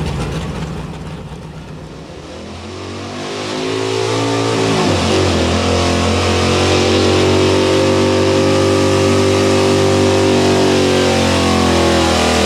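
Pro Street four-wheel-drive pulling truck's engine revving up under load as it pulls down the track. The pitch drops sharply about five seconds in, then the engine holds steady at high revs.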